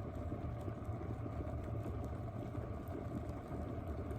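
1.7-litre glass electric kettle at a full rolling boil: a steady bubbling and rumbling.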